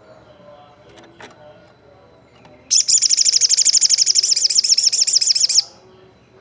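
Olive-backed sunbird singing one fast, high trill of rapidly repeated notes, lasting about three seconds and starting a little under three seconds in.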